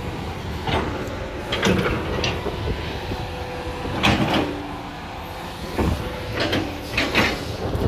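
Demolition machinery's diesel engine running with a steady rumble, with irregular cracks and knocks of the building being broken up and flattened.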